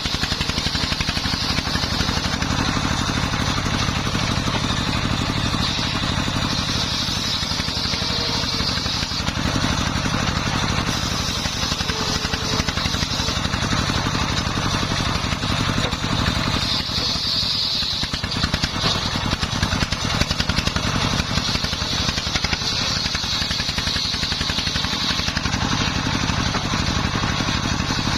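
Dongfeng 24 hp single-cylinder diesel engine running steadily, driving a homemade circular saw through wood. A high whine from the saw comes and goes over the engine's steady running.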